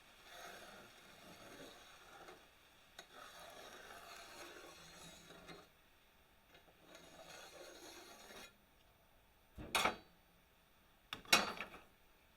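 Three long rasping strokes worked by hand across a workpiece, then two sharp knocks near the end.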